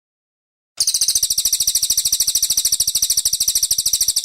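Brown cililin bird singing a loud, rapid trill of high notes, about a dozen a second, very even in pitch and pace, starting suddenly about a second in after silence.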